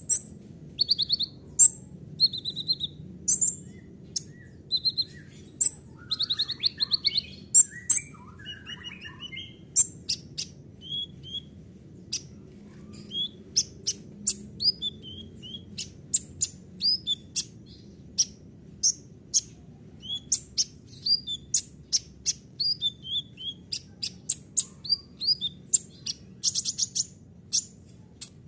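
Kolibri ninja (a sunbird) singing a long, varied song of rapid high chirps, short trills and buzzy rattles in quick phrases, with a steady faint low hum underneath.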